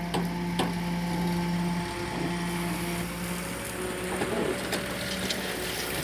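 Diesel engine of heavy machinery running steadily, with a few sharp knocks over it, about half a second in and again near the end.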